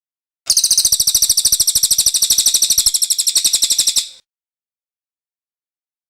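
A cililin bird sings one fast, high-pitched trill of evenly repeated notes, lasting about three and a half seconds. It starts about half a second in and stops abruptly.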